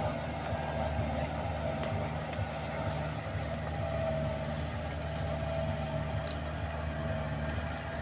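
Boat's diesel engine running steadily: a low, even drone with a faint steady whine above it.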